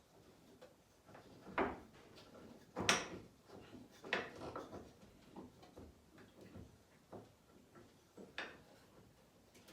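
Scattered knocks and clunks of boards and saw parts being handled and set in place, the loudest about three seconds in.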